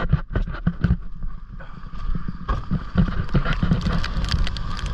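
Strong wind buffeting the microphone in irregular gusts, mixed with rain and scattered knocks.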